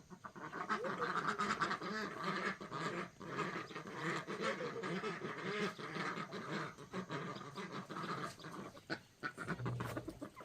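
A flock of domestic poultry calling, with many short calls overlapping one another without a break.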